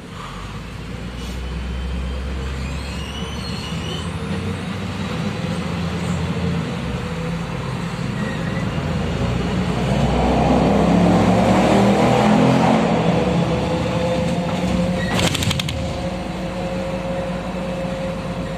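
Cabin noise inside a MAZ-105 city bus under way: the engine and drivetrain run with a steady low hum. The noise swells for a few seconds around ten seconds in, a steady whine runs through the second half, and there is a short sharp rattle about fifteen seconds in.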